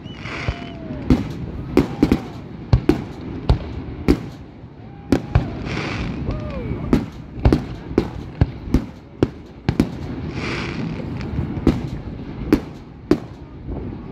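Aerial fireworks display: shells bursting with sharp bangs in rapid, irregular succession, often one or two a second, with three spells of hissing about a second long.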